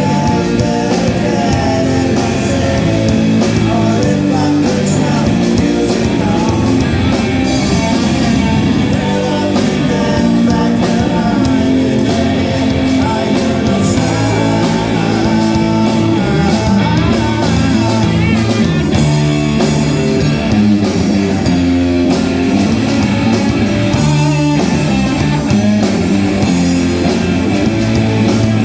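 A rock band playing live, with electric guitar, bass and drums and singing.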